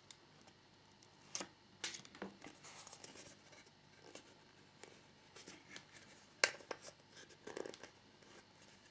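Faint handling sounds of small plastic model parts on a work surface: a few scattered sharp clicks and taps with light scratching and rustling, the loudest click about six and a half seconds in.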